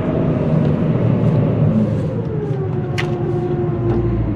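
Combine harvester running, heard from the cab, with a whine that slides down in pitch about halfway through and then holds steady. A single sharp click about three seconds in.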